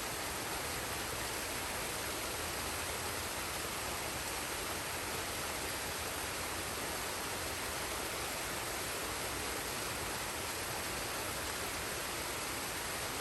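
Forest waterfall and stream: a steady, even rush of falling and running water.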